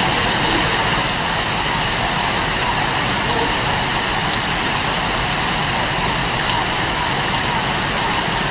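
Rain pouring down steadily, a dense even hiss.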